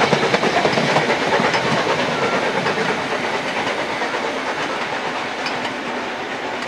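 Narrow-gauge steam train's passenger coaches rolling away along the track, wheels running on the rails with a fast, even rattle, the sound slowly fading as the train recedes.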